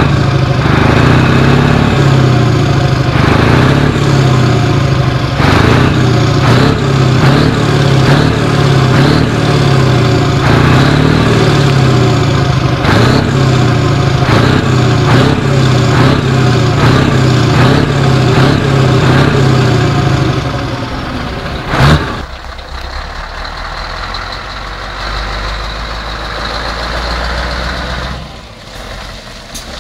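Scania 144-530's 14-litre V8 diesel running loud and steady, then dropping away about twenty seconds in. A short, sharp sound comes about a second later, and the engine runs on much quieter.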